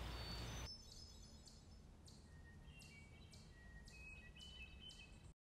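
Very faint outdoor ambience with distant birds chirping: a low background rumble for the first moment, then short, high chirps over a quiet hiss, which cuts out to silence just before the end.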